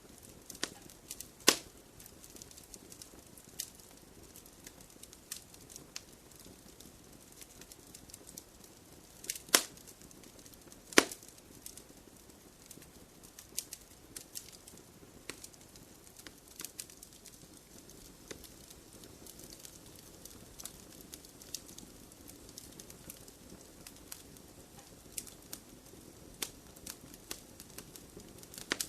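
Wood fire crackling in a fireplace: scattered small clicks and snaps over a soft low hiss. There are three louder pops, one about a second and a half in and two close together around ten seconds in.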